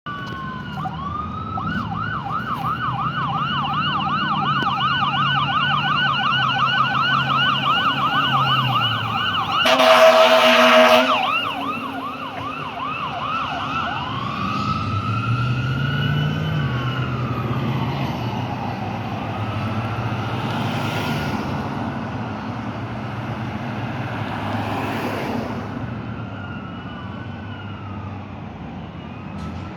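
Fire engine siren in a fast yelp, about four rises and falls a second, broken by a loud horn blast about ten seconds in. The siren then changes to a slow wail over a low diesel engine rumble, and it fades as the truck moves away.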